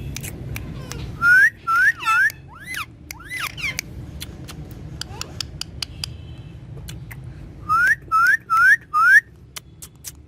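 Pet parrot whistling: short rising whistles, three in quick succession about a second in, then four more near the end, with softer gliding calls between and many sharp clicks.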